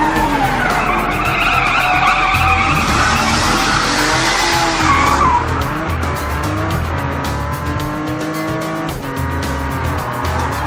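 Cartoon car sound effects: tyres screeching and skidding with engine noise, over background music with a steady bass beat.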